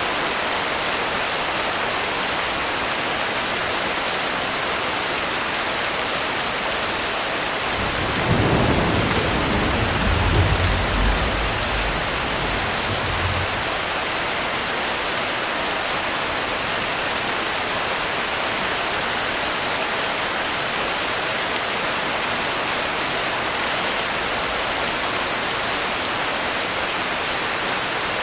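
Steady rain falling, with a roll of thunder rumbling in about eight seconds in and fading out some five seconds later.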